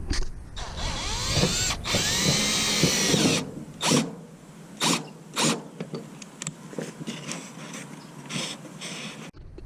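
Power drill driving screws into wood. Its motor whine rises and falls for about a second, about two seconds in, then comes in several short bursts.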